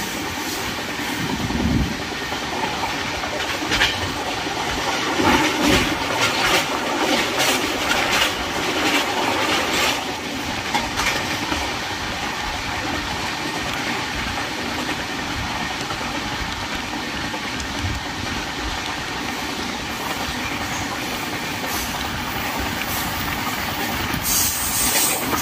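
Indian Railways passenger train running along the line, heard from a coach window: a steady rumble and rush of air, with irregular knocks from the wheels and coaches that come thickest in the first ten seconds or so. The rush of air grows louder near the end.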